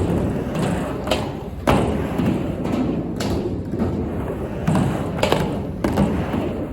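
Skateboard riding a mini ramp: a steady rumble of the wheels rolling, broken by about six sharp knocks of the board and trucks at uneven intervals.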